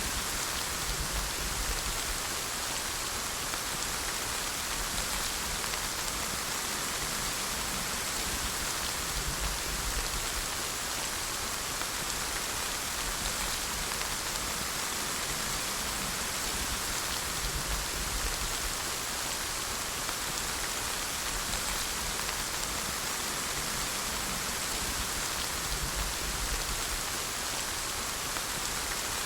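Steady rain falling, an even hiss of drops on a surface with no let-up.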